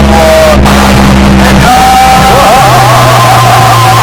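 Very loud DJ music played through a big sound-box system: a sung vocal line over a steady heavy bass, the bass moving to a new note about two and a half seconds in.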